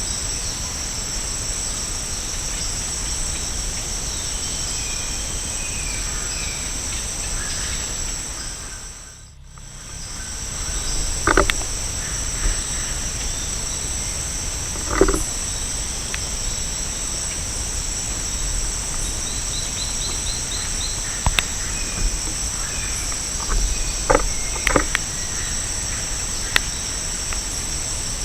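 Rainforest insect chorus: a steady high double-pitched buzzing that drops away for about a second some nine seconds in. A few sharp knocks and faint bird chirps come through it.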